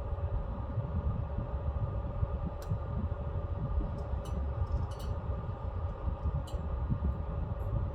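Pellet stove running: a steady low rumble with a constant fan hum, and a scattering of faint, sharp ticks in the second half.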